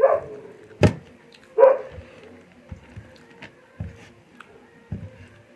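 A dog barks twice in the first two seconds, with a sharp click between the barks; after that only scattered soft knocks.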